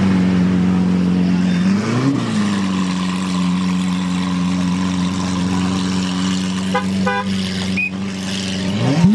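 Supercar engine running steadily at a fast idle, blipped once about two seconds in and revving up near the end, with a few short horn toots about seven seconds in.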